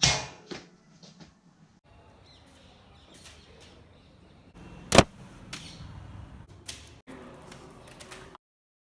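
Paper aeroplane trick-shot sounds: a whoosh at the start that fades over about half a second, then small knocks, and a single sharp smack about five seconds in, the loudest sound. The sound cuts out briefly near the end.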